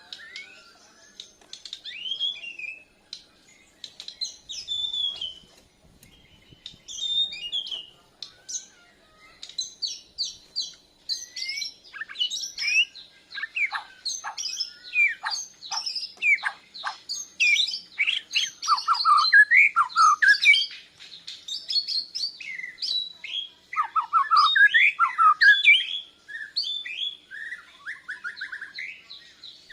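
White-rumped shama (Bornean murai batu) singing a varied song of whistled notes and quick sweeping phrases, sparse at first, then denser and louder after about ten seconds.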